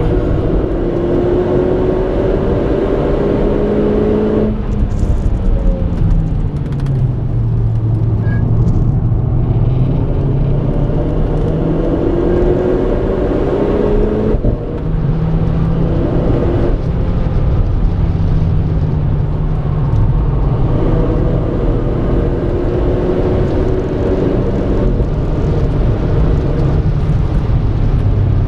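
Renault Clio RS 220's 1.6-litre turbocharged four-cylinder engine under hard acceleration on track, its pitch climbing for several seconds and then dropping abruptly at each gear change or lift. This happens three times, with the engine slowing between pulls, over steady road and tyre noise.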